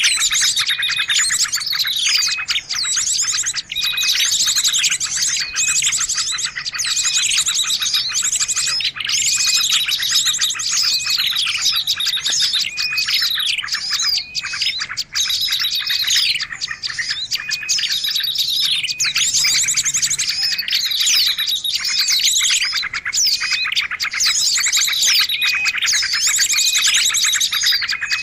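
A dense chorus of small birds chirping, trilling and whistling over one another without a break: a mixed small-bird lure recording (suara pikat) meant to draw small birds in.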